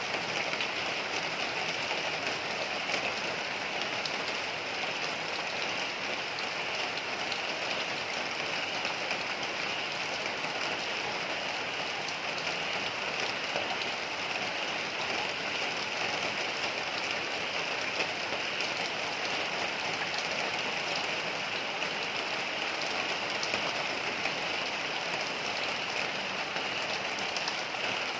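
Heavy rain falling steadily: a dense, even hiss with many small drop impacts.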